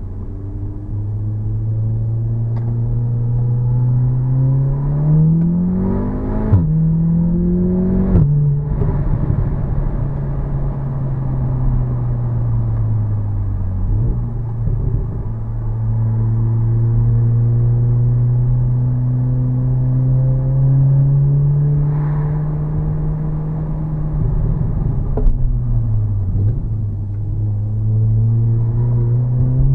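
Audi S3 8V's turbocharged four-cylinder engine accelerating through the gears. The revs climb and drop sharply at two quick upshifts about six and eight seconds in, with a short crack at each shift. After that it runs at a steady speed, eases off twice, and picks up again near the end.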